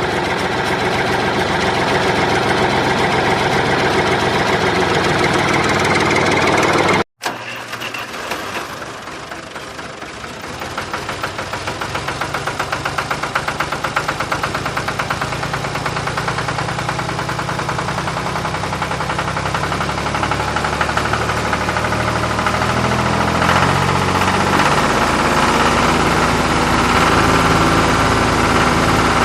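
Tractor engine running with a steady knocking beat. It cuts off abruptly about seven seconds in, then comes back and builds up again.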